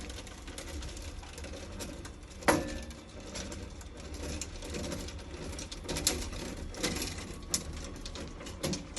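Car-roof wheelchair pod's electric drive running as the pod retracts back in, with one sharp knock about two and a half seconds in and several lighter clicks later on.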